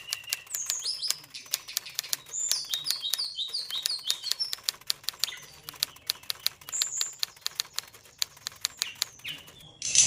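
Oriental magpie-robin (kacer) in high breeding condition giving short chirps and whistles, over a busy run of sharp clicks and taps, several a second.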